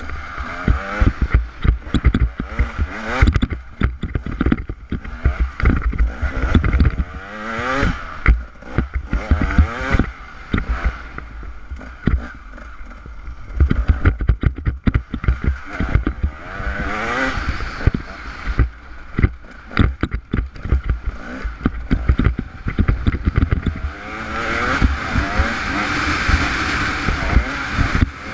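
Off-road motorcycle engine revving up and down as it rides a rocky dirt trail, with constant knocks and rattles over the bumps and wind rushing over the microphone.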